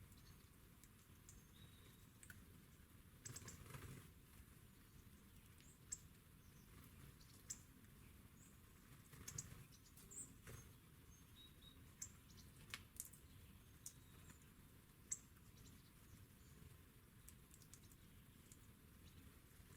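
Faint, irregular clicks and taps of birds pecking and handling seeds at a feeder, with a few faint, very short bird chirps.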